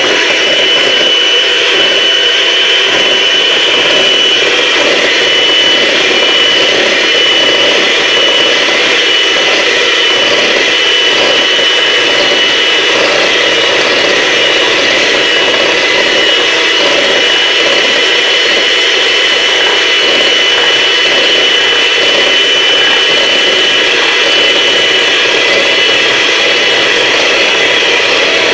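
Electric blender running steadily, whipping chocolate cake batter in a bowl, its motor holding a steady high whine throughout.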